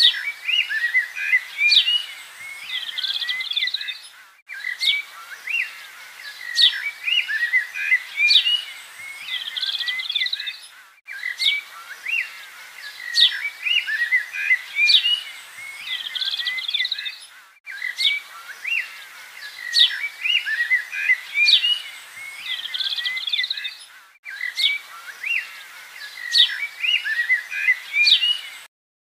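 Many small birds chirping and calling together in dense, overlapping calls. The same stretch of chirping comes round again about every six and a half seconds, with a brief break between repeats, and it cuts off suddenly just before the end.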